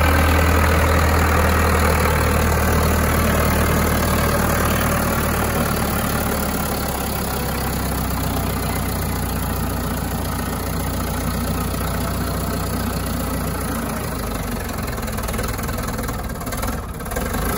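Trident compact tractor's engine running steadily, easing a little quieter over the first several seconds, with a brief unsteady patch near the end.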